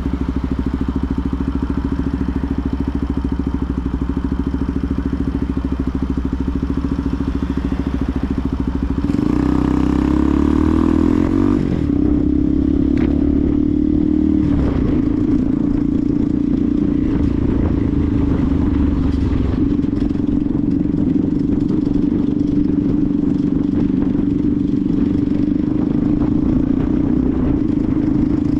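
Benelli TNT 125's single-cylinder four-stroke engine idling steadily, then revving up about nine seconds in, its pitch climbing and shifting before it settles into a steady, higher running note.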